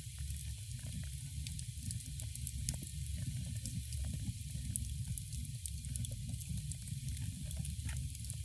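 Wood fire burning in a fireplace: a steady hiss with many small irregular crackles and pops over a low rumble.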